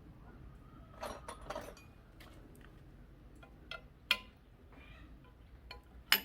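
Metal tools and parts clinking and knocking during hand work, a handful of separate sharp clinks with the loudest just before the end.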